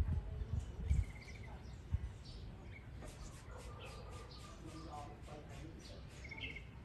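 Baby bird cheeping: many short, high chirps, with a quick trill about a second in and another near the end. A few low thumps come in the first two seconds.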